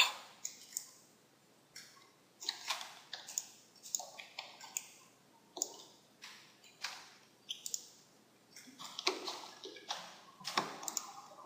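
Computer mouse clicking repeatedly at an irregular pace, some clicks in quick pairs, as parts of a 3D model are selected.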